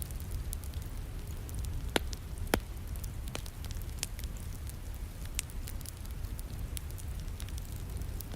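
Wood fire crackling in a fireplace, with scattered pops and two sharper snaps about two seconds in, over a steady low rumble and the soft hiss of falling rain.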